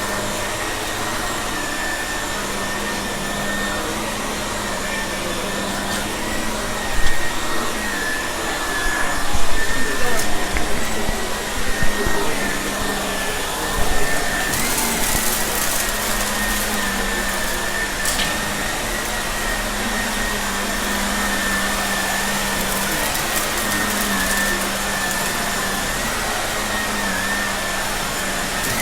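Shark vacuum cleaner running steadily with a constant whine over its motor hiss. A louder, uneven stretch about a quarter to halfway in, as it sucks up the spilled mess.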